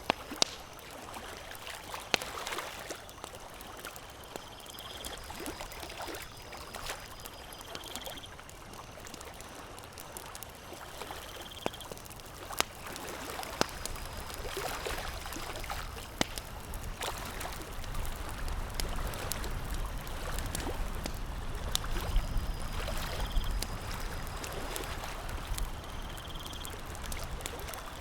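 Campfire crackling: a steady hiss dotted with frequent sharp pops and snaps. Brief high chirps recur every few seconds, and a low rumble swells in the second half.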